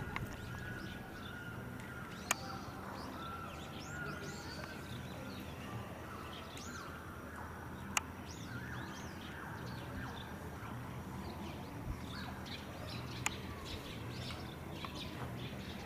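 Small birds chirping repeatedly in short arching calls, with three sharp clicks spread through and a steady low hum underneath.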